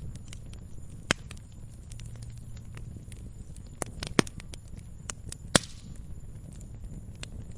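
Wood fire crackling in a fireplace, with scattered sharp pops over a steady low rumble of the flames; the loudest pops come about a second in and twice between four and six seconds in.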